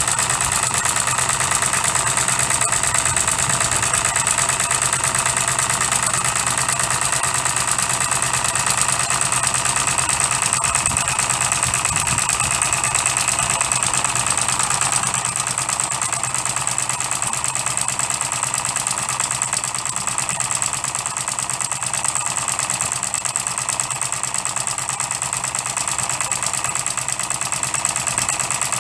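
Custom-made 12cc direct-injection model diesel engine running steadily, with an even, rapid firing beat; it gets a little quieter about halfway through.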